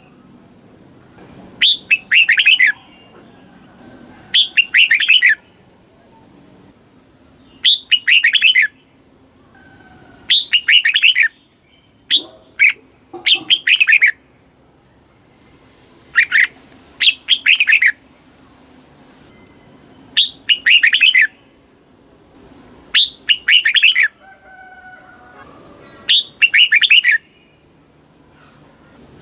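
Red-whiskered bulbul singing: short, bright, warbled phrases, each about a second long, repeated every two to three seconds, now and then two phrases in quick succession.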